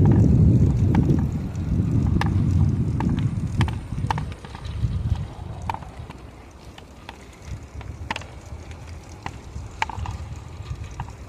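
Wind buffeting the microphone as a low rumble, strong at first and dying down after about four seconds, with scattered sharp clicks and taps throughout.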